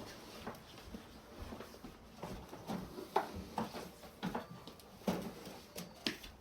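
Irregular light knocks and clicks, about a dozen, from tools or parts being handled during air-conditioner replacement work in a small room.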